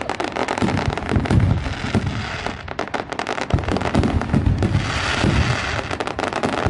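Fireworks going off in quick succession: dense crackling mixed with repeated low booms.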